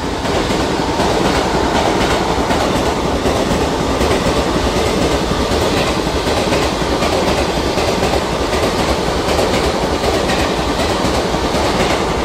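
Train running past at speed: a loud, steady rush of steel wheels on rail with the rhythmic clickety-clack of the wheels over rail joints.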